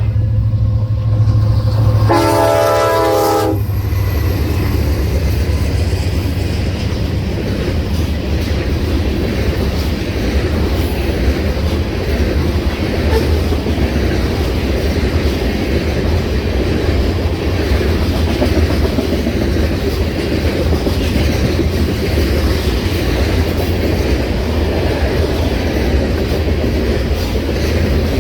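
Train passing close by: the diesel locomotive's horn sounds one short blast about two seconds in over the deep engine rumble. Then comes a long steady rumble and clatter of the cars rolling over the rails.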